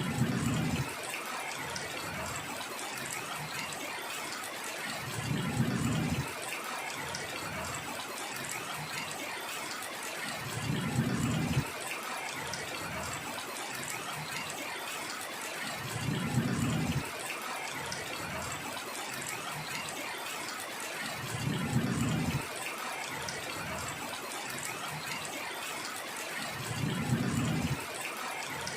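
Heavy rain falling as a steady hiss. A short low rumble of about a second swells and cuts off roughly every five and a half seconds, six times in all.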